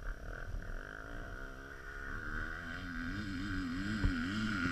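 Dirt bike engine revving, its pitch rising and falling with quick throttle blips as the rider works up to an obstacle, growing louder toward the end.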